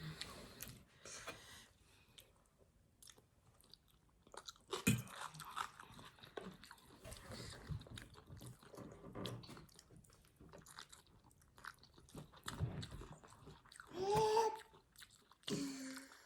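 Close-up chewing and biting of food, with small crunches and wet mouth clicks. A brief voiced sound comes about two seconds before the end.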